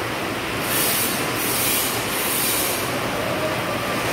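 Heavy rain pouring onto a flooded paved lane: a dense, steady hiss of splashing, with a higher hiss swelling and fading several times.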